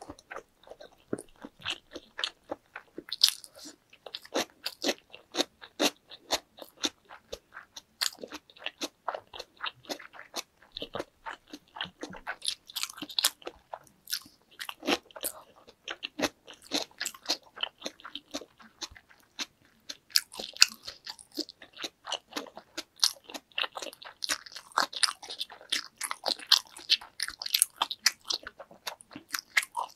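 Close-miked chewing and biting: wet mouth clicks and smacks, several sharp clicks a second.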